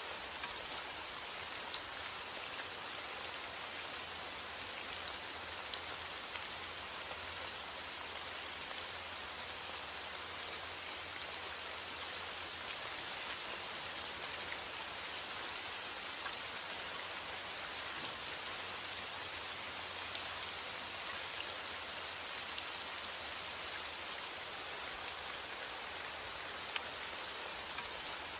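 Steady rain falling: a dense, even hiss with scattered sharper ticks of individual drops.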